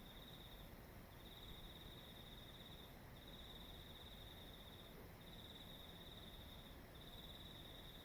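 An insect trilling faintly in a high, even, finely pulsed tone, in long bursts of about a second and a half with short pauses between, five times over, against a faint low background rumble.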